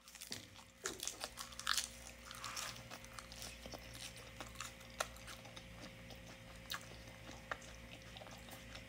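Close-up crunching and chewing of crisp raw iceberg lettuce: a run of crunchy bites in the first couple of seconds, then slower, sparser crunches as it is chewed with the mouth closed.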